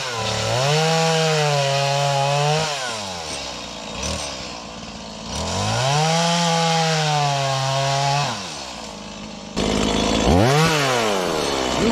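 Stihl MS180 31.8 cc two-stroke chainsaw revved to full throttle twice for a few seconds each, its pitch sagging a little as the chain bites into wood, and dropping back to idle between cuts; near the end come short quick blips of the throttle.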